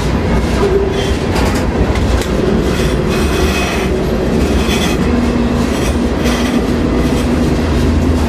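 Freight train rolling: a loud, steady rumble of the cars with irregular clanks and knocks, and a faint held whine from about five to seven seconds in.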